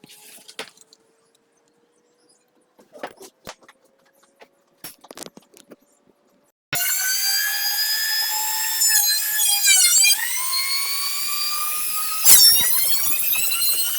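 A few faint knocks, then about halfway through a high-speed electric power tool starts abruptly and runs with a high whine. Its pitch sags briefly as it bites into the work, and there is a sharp knock near the end.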